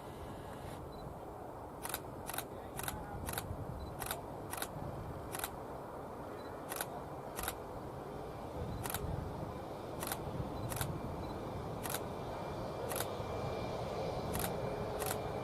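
Camera shutter firing single shots, about eighteen sharp clicks spaced irregularly half a second to a second apart, over a steady outdoor background hum.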